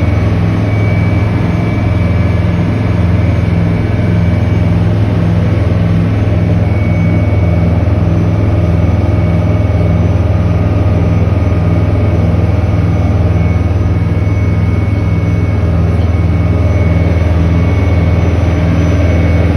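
Motorboat engine running steadily under way, a loud low drone heard from on board.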